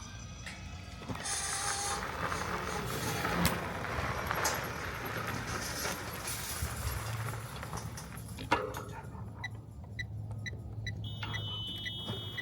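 Road traffic passing with a couple of sharp clicks, followed by a run of short high electronic beeps, about three a second, and a steady high tone near the end.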